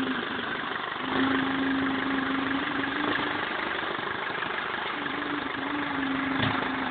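BMW E46 320d's 150 hp four-cylinder diesel idling steadily after an overhaul that followed a swirl-flap failure, with a faint tone coming and going over it. A short knock near the end.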